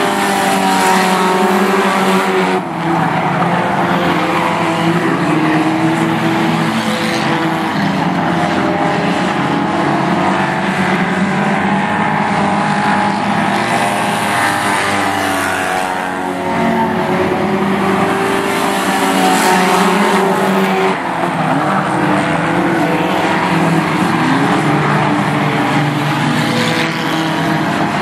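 A pack of Warrior-class race cars' engines running together at racing speed, several overlapping engine notes rising and falling as the cars accelerate and back off around the oval.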